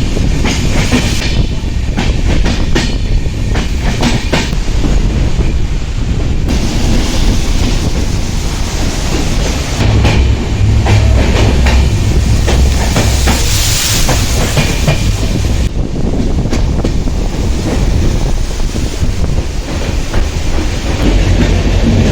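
Passenger train running along the track, with a loud, steady low rumble and the clickety-clack of wheels over rail joints; the clicks come thickest in the first few seconds.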